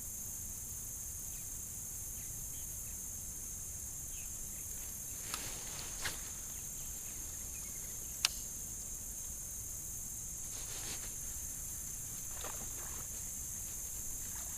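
Steady high-pitched drone of insects in the creekside trees, over a low rumble. A few faint clicks and knocks come through, the sharpest about eight seconds in.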